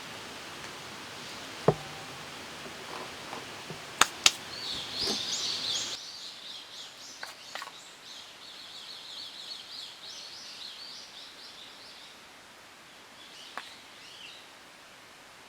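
A songbird singing quick runs of high chirping notes for several seconds, with a shorter phrase near the end. Before it, a few sharp knocks sound over a steady hiss that stops about six seconds in.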